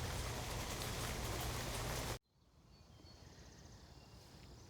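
Steady rushing noise with a low hum that cuts off abruptly about two seconds in. It gives way to quiet woodland ambience with faint, high bird chirps.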